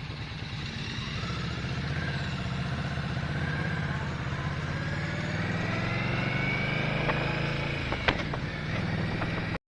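Motorcycle engine running steadily during a ride, growing a little louder about a second in, with a sharp tick near the end before the sound cuts off abruptly.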